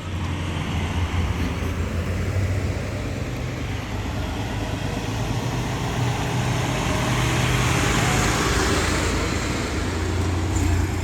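Fire truck engine running with road noise as the truck drives slowly past, a steady low rumble that grows louder toward about eight seconds in, then eases off slightly.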